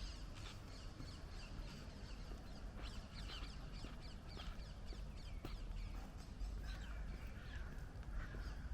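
Several birds chirping and calling in short, quick, falling notes, some harsher calls coming in lower near the end, over a low steady rumble.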